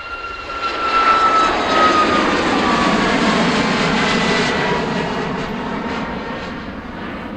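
Red Arrows' BAE Hawk T1 jets making a low pass over the airfield in a flyby. The jet noise swells about a second in, with a whine that slides down in pitch as they go by, then slowly eases off.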